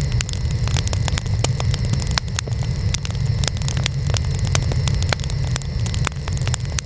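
Burning wood fire crackling: a steady low rumble of flames with many sharp, irregular pops and snaps, several a second.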